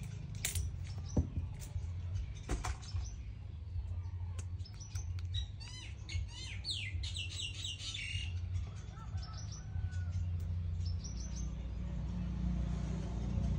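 Small birds chirping in quick bursts of high falling notes, over a steady low hum, with a few sharp clicks in the first three seconds.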